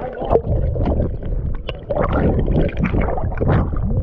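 Water splashing and sloshing close to the microphone, with uneven surges and many small sharp crackles over a low rumble.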